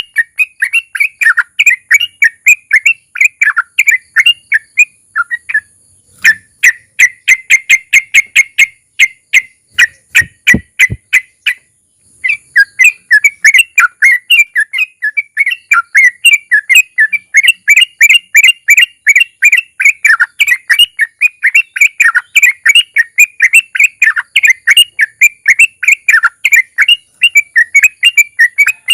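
Sooty-headed bulbul (trucukan) singing a long, fast chattering run of short notes, the rapid trill that keepers call ropel, pausing briefly twice.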